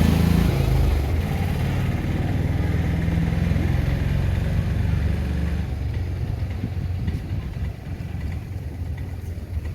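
A nearby motor vehicle's engine idling with a steady low rumble, which drops away about six seconds in, over general street noise.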